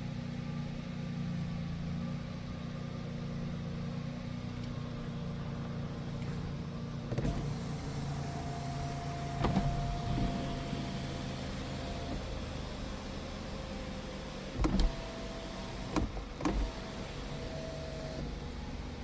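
Interior of a Hyundai Grandeur IG 3.0 LPi with its V6 engine idling as a steady low hum, broken by a few clicks and knocks. Twice a thin electric whine holds for a few seconds.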